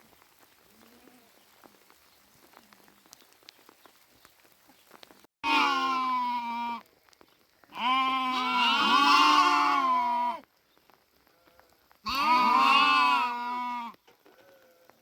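Sheep bleating: three loud, drawn-out bleats, the middle one the longest at about two and a half seconds.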